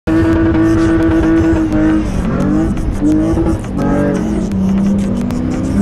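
Off-road SUV engine revving hard on sand, its pitch held high, then dropping and climbing again several times.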